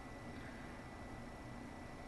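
Faint room tone: a steady low hiss with a thin, steady high whine, and no distinct events.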